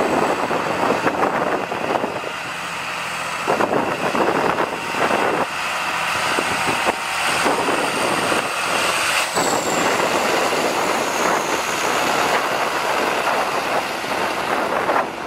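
John Deere 8100 tractor's six-cylinder diesel engine running, with a faint steady high whine over the engine noise.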